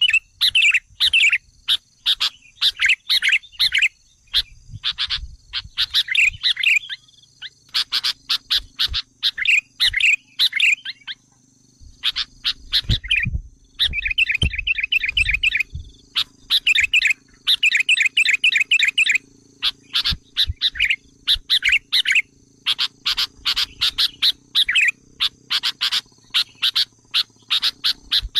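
Sooty-headed bulbul (kutilang) lure calls: fast chattering phrases of short, sharp notes repeated over and over with brief pauses, the excited calls used to provoke wild bulbuls.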